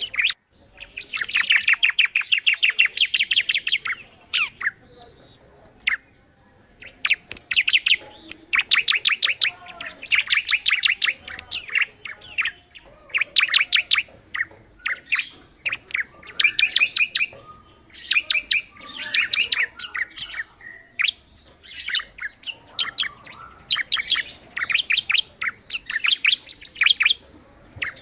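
Ciblek (a prinia) singing: phrase after phrase of rapid, sharp, high ticking notes, each phrase lasting a second or three, with brief pauses between.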